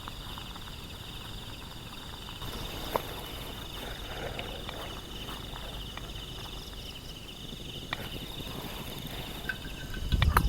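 Steady chirring of insects, with a few faint clicks and knocks, and a louder low thump and rustle near the end.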